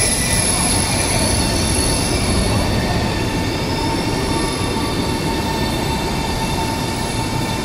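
CRH high-speed electric multiple unit running past on the track: a steady rumble of wheels on rail with a faint steady whine above it, easing slightly about halfway through.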